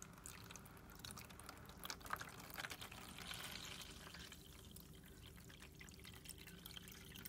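Water being poured slowly into a plastic bottle, a faint trickle with small drips, a little louder around the middle.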